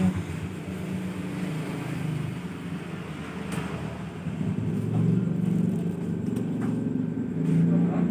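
Low, steady engine rumble that grows louder about five seconds in and again near the end.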